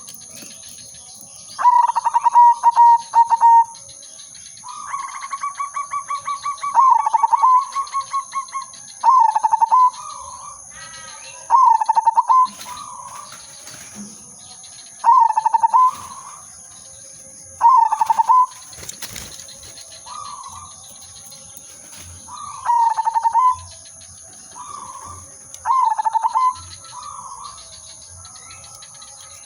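A zebra dove (perkutut) sings its cooing phrase over and over, about every two to three seconds. Each phrase opens with quick stuttering notes, and one early phrase is drawn out into a long rapid trill. Fainter coos come in between, over a steady high-pitched whine.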